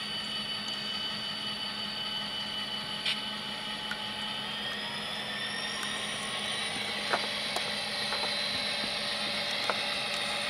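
Model locomotive's Tsunami sound decoder playing a turbocharged EMD 645 diesel prime mover through its small speaker, running steadily, with a high whine that rises in pitch about halfway through and a few faint clicks.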